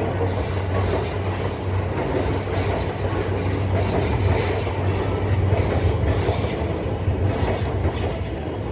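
E655 series 'Nagomi' electric train running past, its wheels clicking regularly over the rail joints under a steady low hum.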